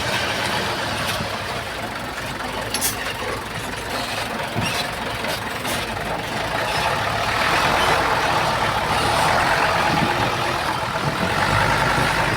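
Komatsu bulldozer's diesel engine running steadily as it works soil, with a few sharp clanks in the first half. The machine gets louder from about seven seconds in.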